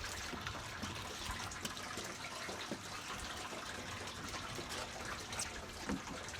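Water trickling and splashing steadily, with scattered small ticks.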